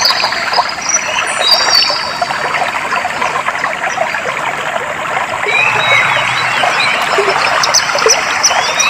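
Clear water trickling and flowing steadily, with birds chirping over it: a few short high calls about a second in and a cluster of chirps in the second half.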